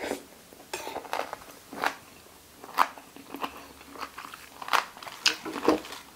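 A person chewing pig ear close to the microphone, the cartilage giving irregular crisp crunches.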